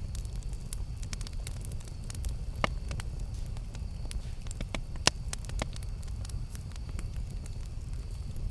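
Wood campfire crackling and popping over a steady low rumble, with two sharper pops about two and a half and five seconds in.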